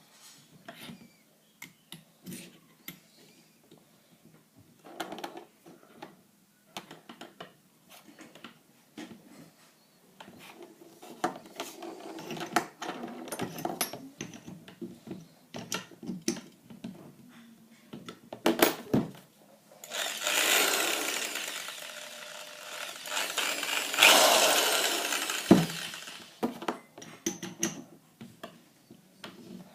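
Clicks and rattles of handling a drill and its chuck while the bit is changed, then an electric drill running in two short bursts near the end.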